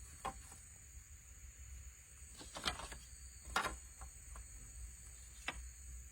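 Steady high-pitched drone of insects, with four sharp wooden knocks or cracks spread through it from sticks and branches being handled, the loudest a little past halfway.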